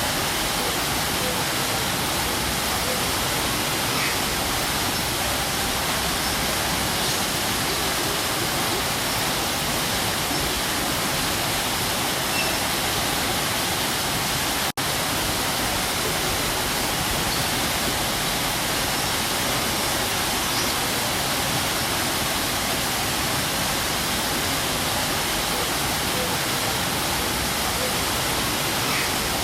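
Waterfall pouring steadily, an even, full rush of falling water. About halfway through the sound cuts out for a split second and comes straight back.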